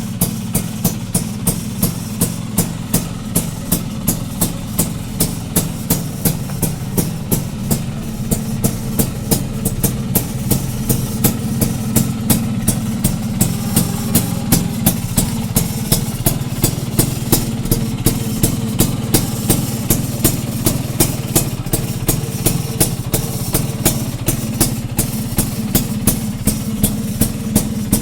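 Vespa Excel 150's single-cylinder two-stroke engine idling steadily, under background music with a steady drum beat.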